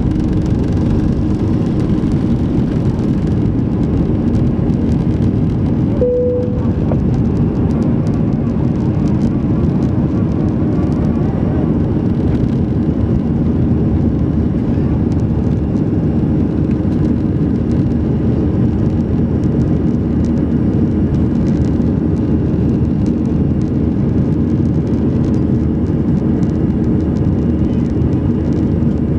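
Steady engine and airflow noise of an Airbus A320 in flight, heard inside the cabin, with a low hum running under it. A brief single tone sounds about six seconds in.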